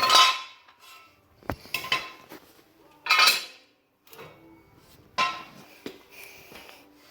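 Metal tools and parts clanking and clinking as they are handled: four loud clatters with a short metallic ring, one to two seconds apart, with lighter clicks between.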